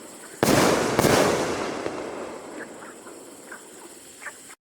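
Aerial fireworks going off: two loud bangs about half a second and a second in, followed by a slowly fading rumble with a few faint scattered pops. The sound cuts off abruptly at the very end.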